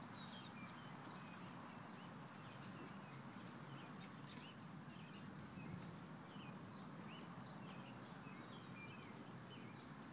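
Faint, quick chirps of small birds, many short calls through the whole stretch, over a low steady background rumble.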